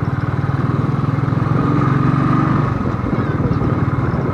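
Royal Enfield Thunderbird's single-cylinder engine running under way, its exhaust beats coming as a rapid, even low thudding. The sound grows a little louder around the middle.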